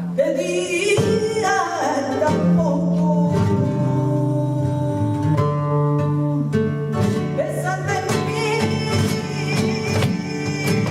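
Live flamenco seguiriya: cante singing in long wavering lines over flamenco guitar.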